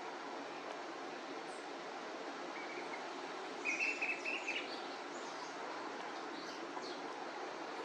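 A bird chirping: a quick run of short notes about halfway through, then a few fainter high chirps, over a steady outdoor background hiss.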